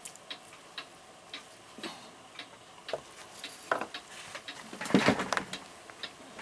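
Small brass clock parts clinking as they are handled and set into a cleaning container: uneven light clicks, with a louder cluster of clinks about five seconds in.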